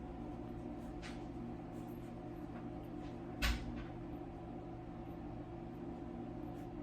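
Steady low electrical-sounding hum, with a single short knock about three and a half seconds in and a fainter brief sound about a second in.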